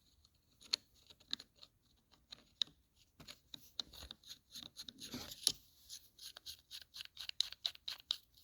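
Compression tester fittings being handled: irregular light clicks and clinks of small metal parts, with a short scrape about five seconds in.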